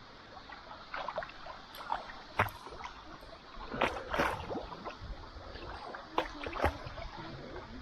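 Paddle dipping into river water, with irregular splashes and drips and a little gurgling.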